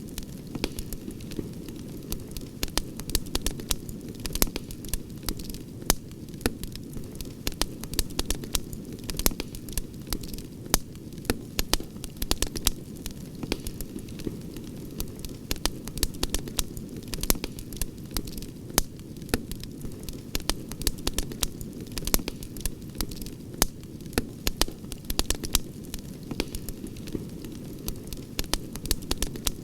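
Campfire crackling: frequent, irregular sharp pops and snaps over a steady low rush.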